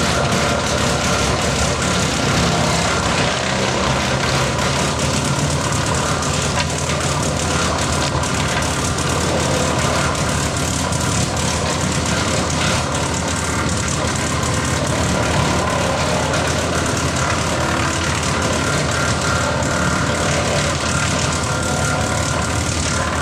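Diesel engine of a TYM 574 compact tractor running steadily under power, driving a PTO-powered Woodland Mills wood chipper as it chips branches and logs.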